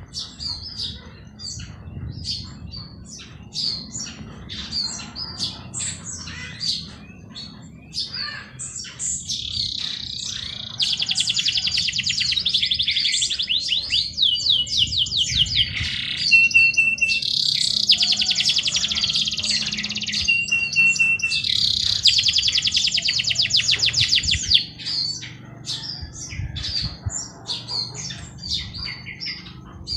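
Several songbirds chirping with short repeated notes. For a stretch in the middle, one or more birds break into loud, very fast chattering trills in long runs lasting a few seconds each.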